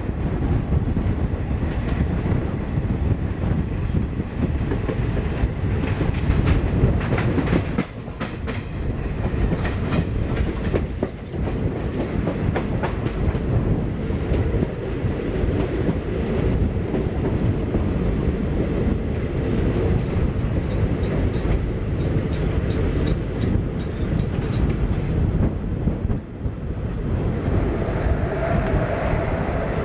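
Indian Railways passenger train running at speed, heard from the coach: a steady rumble of wheels on rail with rhythmic clickety-clack over rail joints, and a patch of sharper clattering about seven to twelve seconds in.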